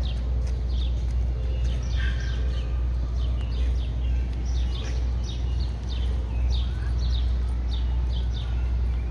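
Birds chirping again and again in short, falling chirps over a steady low rumble of outdoor city background.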